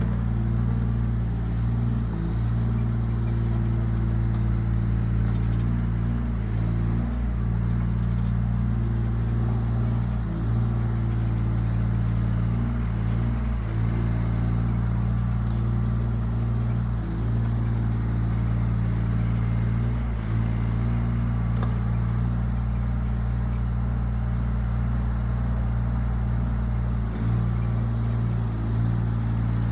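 Yanmar ViO17 mini excavator's diesel engine running steadily, with brief dips in its note now and then as the machine works.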